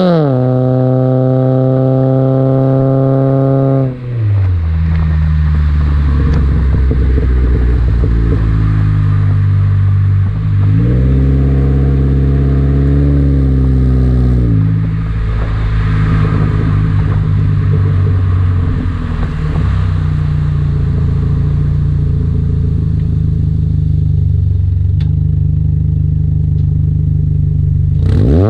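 Chevy Cobalt's 2.2-litre four-cylinder engine through a ZZP long-tube header and full 3-inch catless exhaust, heard while driving. The note drops about four seconds in, climbs under acceleration for a few seconds mid-way, drops sharply at an upshift, then holds a steady cruising drone, with a sharp rev right at the end.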